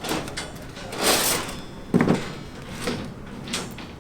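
Irregular knocks and clatters, with a scraping swish about a second in and a heavy thud about two seconds in.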